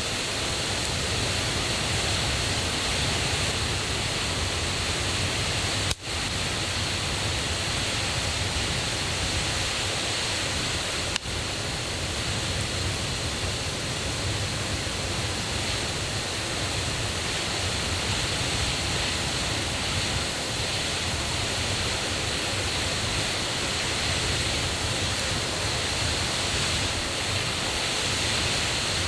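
Steady rushing of a forest river and waterfall, running high and loud after rain. The rush drops out briefly twice, about six and eleven seconds in.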